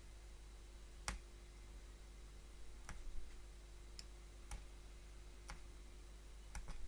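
Faint, irregular sharp clicks about once a second, two in quick succession near the end: a hollow punchcraft needle punching thread through cloth.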